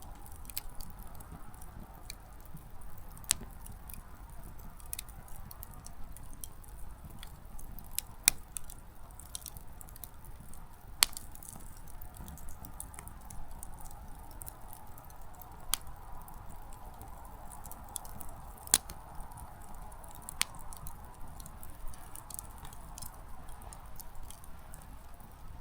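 Small wood campfire crackling: irregular light pops and ticks from burning firewood, with a few louder sharp snaps, over a soft steady rush of flame.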